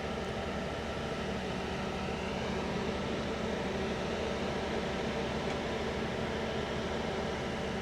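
Engine of a RoboCut T400 remote-controlled slope mower running steadily, a continuous even drone.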